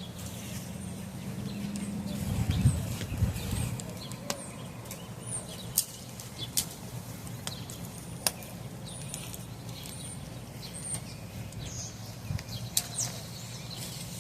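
Small wood fire in a barbecue pit crackling, with scattered sharp pops and snaps over a steady low hum. Birds chirp faintly now and then, and a low rumble comes about two to three seconds in.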